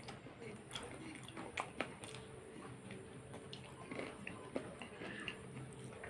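Close-up chewing and mouth sounds of someone eating curry and rice by hand, with fingers squishing rice and curry on a plate. Scattered sharp clicks run through it, the loudest near the 2-second mark and again about halfway through.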